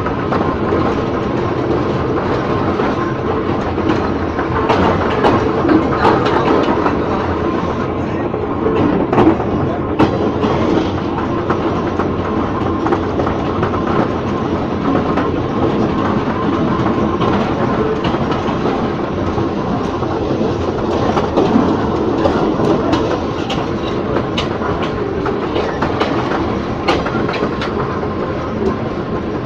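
Ex-JR 203 series passenger car running along the track: a steady rumble of wheels on rail, with clickety-clack over rail joints.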